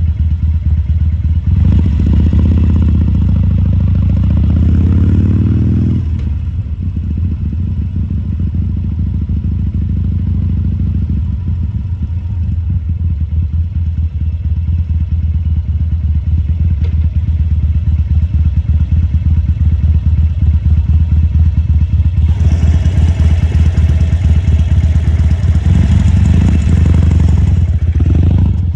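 A Harley-Davidson Sportster XL1200C's air-cooled V-twin running at low speed with a steady, lumpy exhaust pulse. It picks up under throttle for a few seconds about two seconds in, drops back, then runs louder again for several seconds near the end.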